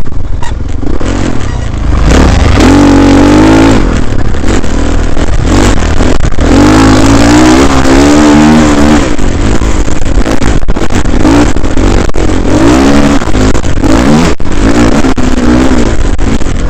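Dirt bike engine picked up by a helmet-mounted camera, revving up and down repeatedly as the throttle is worked, over a dense rushing noise.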